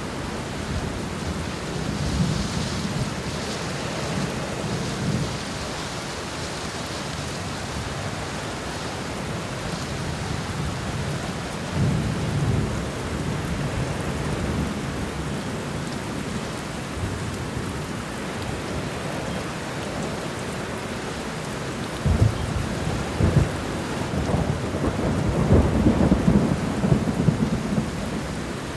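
Steady rain falling through a thunderstorm, with low thunder rumbling in and out; the loudest, longest roll of thunder comes near the end.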